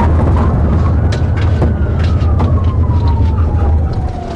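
Police patrol car siren wailing, its pitch slowly falling and then starting to rise again near the end, over steady loud engine and road noise from the pursuing car. A few sharp clicks sound over it.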